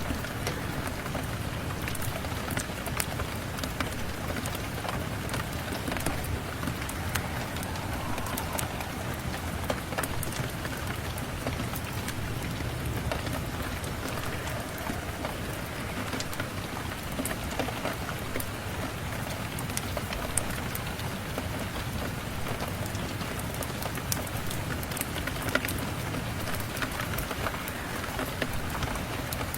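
Steady rain falling, mixed with a crackling wood fire in a fireplace that gives scattered sharp clicks and pops.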